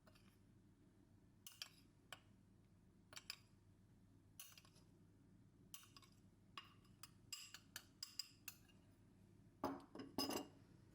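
Light, scattered clicks and clinks of small household items being handled, with a pair of louder knocks near the end.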